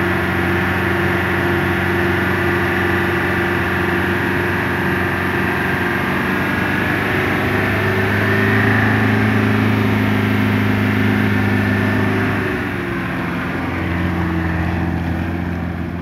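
Land Rover Defender's engine pulling under load on a steep muddy hill climb, running steadily. It grows a little louder about halfway through, then eases off a few seconds before the end.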